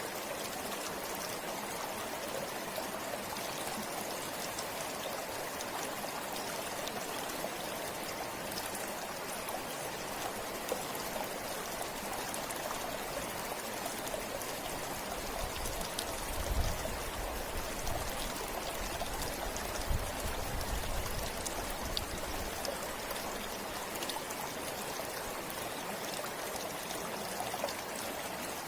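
River water flowing over stones, a steady rushing and trickling. About midway there are a few low rumbles.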